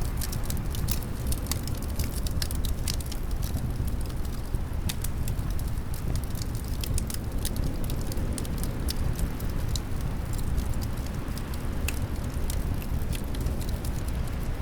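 Fireplace fire crackling, with many small sharp pops throughout, over a steady low rumble of wind.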